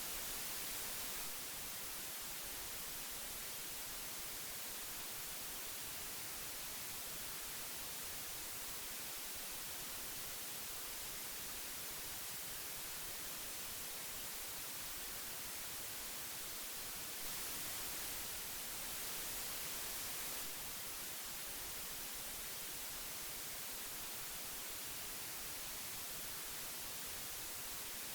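Steady hiss of old magnetic tape playback, an even high-pitched noise that grows slightly louder for a couple of seconds near the start and for a few seconds past the middle.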